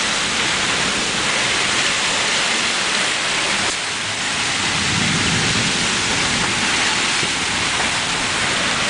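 Heavy rain falling steadily, a dense even hiss, with a brief low rumble about five seconds in.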